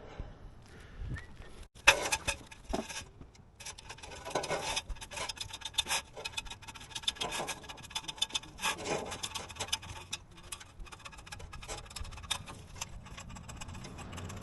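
Rough scraping and rubbing, irregular and continuous, with a sharp knock just under two seconds in.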